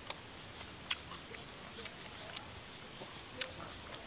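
Mouth sounds of someone eating raw vegetables by hand: irregular short crisp clicks and crunches of chewing and lip smacks, about six in four seconds.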